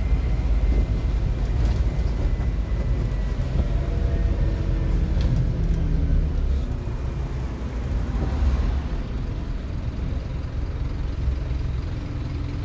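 Scania N230UD OmniCity double-decker bus's diesel engine running under load with a deep rumble, its engine note sliding in pitch in the middle as it pulls; the engine eases off about eight or nine seconds in.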